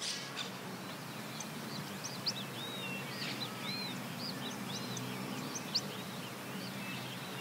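Small birds chirping repeatedly in short, quick calls over a steady outdoor background hiss, with two brief faint ticks.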